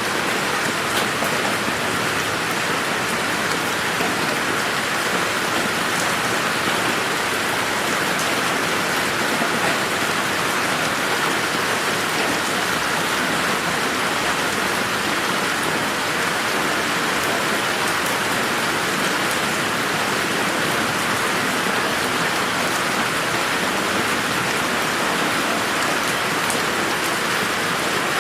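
Steady rain falling in a garden, an even hiss of rain on surfaces with scattered distinct drops.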